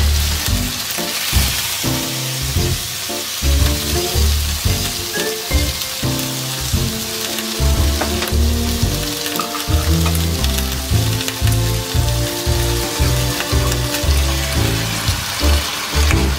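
Gyoza frying in an uncovered frying pan, a steady sizzle that starts as the lid comes off, over background music with a steady beat.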